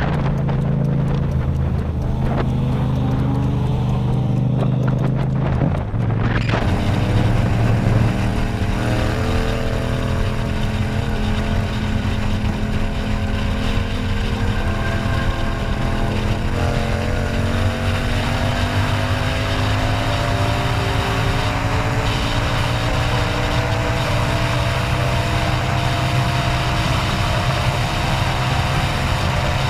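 Yamaha MT-07 parallel-twin engine with an Akrapovic exhaust, heard from the rider's seat. For the first six or so seconds it runs at a steady road pace. After a cut it pulls in sixth gear at about 190 km/h with heavy wind rush, its note slowly rising as the bike keeps accelerating.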